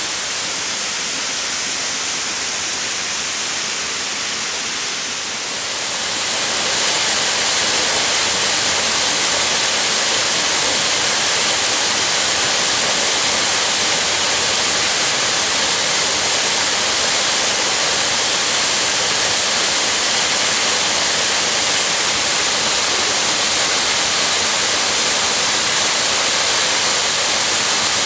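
Steady rushing of a waterfall, an even hiss of falling water. About six seconds in it grows louder and brighter, then holds steady.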